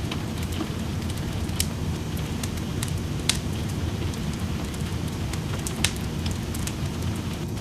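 Steady rain with a wood fire crackling over it: sharp pops scattered at random, a few louder ones about a second and a half, three seconds and six seconds in.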